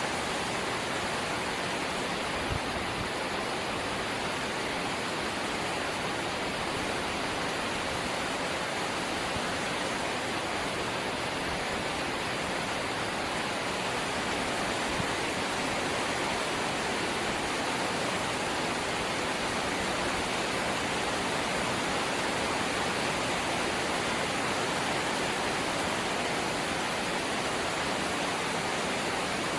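Light rain falling steadily: an even, unbroken hiss.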